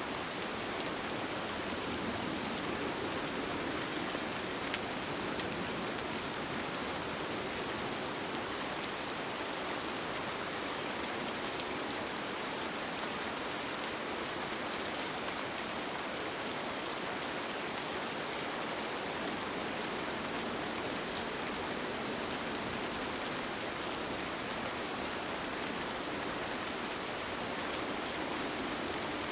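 Steady rain falling on a tent, with scattered small drop ticks over an even patter.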